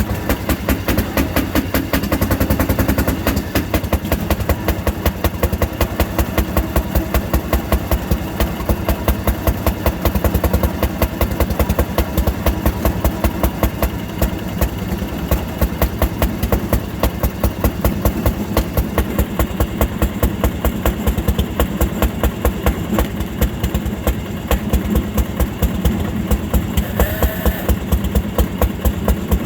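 Fairmont M-19 railroad motor car's single-cylinder two-stroke engine running under load on a climb, with a slow, even beat of firing strokes. Near the end there is a brief high tone.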